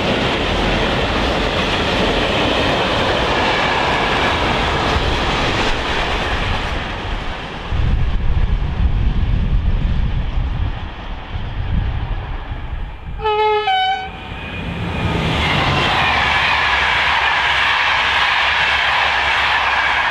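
A freight train of tank wagons behind several Fret SNCF locomotives rolls past and fades away, with a low rumble swelling in the middle. About 13 seconds in a train horn gives two short notes, the second higher, and from about 15 seconds the BB 26044 electric locomotive and its Corail coaches come through with loud wheel and rail noise.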